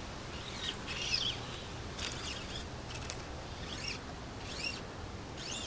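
A songbird calling: a run of short, high, arching chirps, about one or two a second, over a faint steady background.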